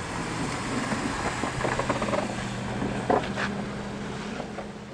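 Snowplow engine running with a steady low hum as it pushes through deep snow, with a few knocks along the way, fading near the end.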